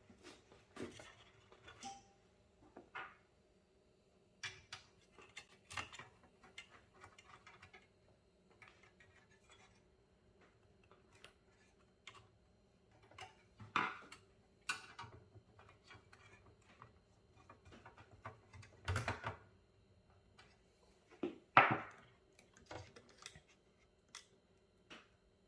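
Irregular clicks, taps and knocks of computer parts and cables being handled and fitted into a desktop PC case, with a few louder knocks, the loudest near the end.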